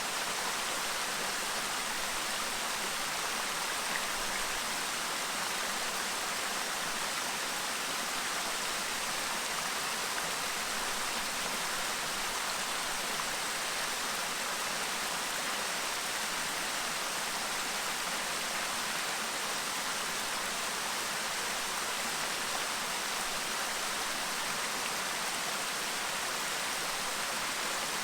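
Clear stream babbling: a steady, unbroken rush of running water.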